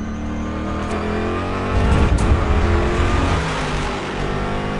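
Film sound of a car chase: vehicle engines running hard and speeding past, with a heavier rumble and a sharp crack about two seconds in.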